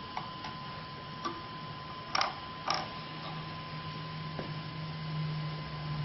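A few short, sharp clicks of buttons and switches being worked in an attempt to start a Parrot Bebop drone from its Skycontroller, over a steady high-pitched tone and a low hum that swells from about halfway through. The drone's motors do not start.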